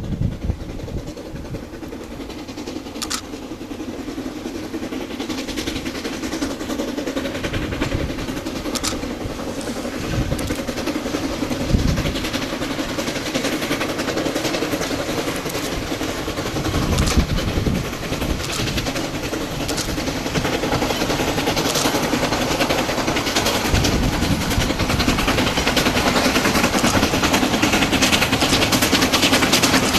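C2 narrow-gauge steam locomotive running under steam, growing steadily louder, with occasional sharp clanks.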